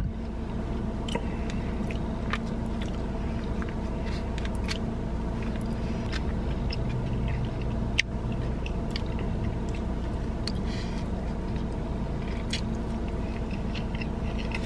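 A person chewing and biting food close to the microphone, with scattered small clicks and crunches over a steady low hum.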